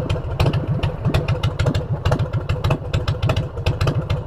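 Motorcycle fitted with aftermarket exhaust pipes idling steadily while it warms up, its exhaust giving a quick, even train of sharp pulses over a low rumble.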